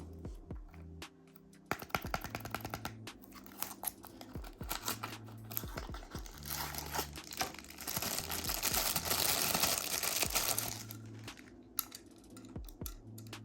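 Toy packaging being handled and opened: a run of small clicks and crinkling, with a denser stretch of crinkling or tearing after the middle, over background music with a steady low bass line.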